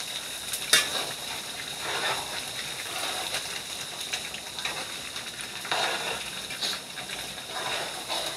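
Brown stew chicken sizzling in a pan as a metal spoon stirs and scrapes through it, with a sharp clink of the spoon on the pan a little under a second in.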